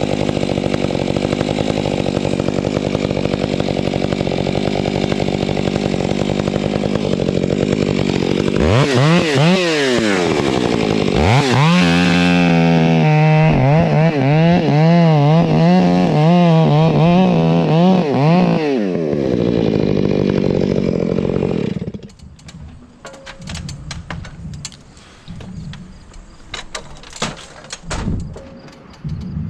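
Chainsaw engine running steadily, then revved up and down over and over before it cuts off abruptly about two-thirds of the way through. Scattered knocks and clicks follow.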